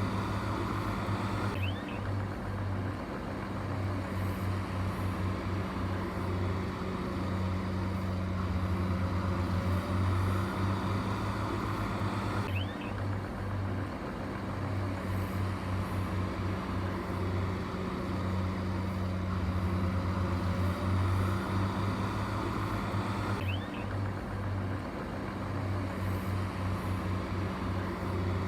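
Heavy diesel engine running steadily with a low, pulsing hum.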